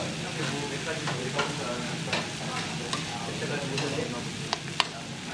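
Kimchi fried rice sizzling in a frying pan as it is stirred and tossed with a spoon, the utensil scraping and clicking against the pan. Two sharp clicks come near the end, the second the loudest.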